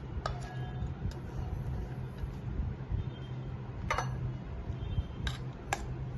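A spoon clinking and scraping against a bowl while a puffed-rice snack is served out, giving a few sharp clinks with gaps between them, two close together near the end, over a steady low hum.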